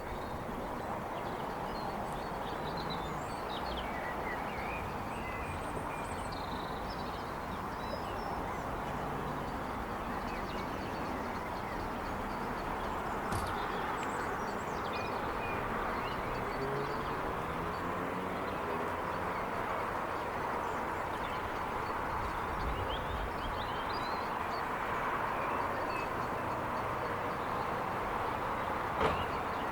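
Suburban outdoor ambience: a steady hum of distant traffic with scattered bird chirps and calls over it, and a single sharp bang near the end.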